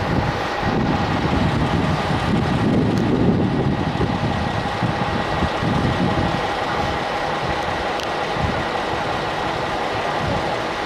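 JR West 125 series electric train at the platform, running with a steady electrical whine over an uneven low rumble.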